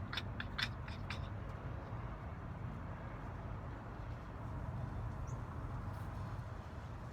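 A quick run of light, sharp clicks from the small metal parts of a mortise lock being handled and fitted during reassembly, ending after about a second, over a steady low hum.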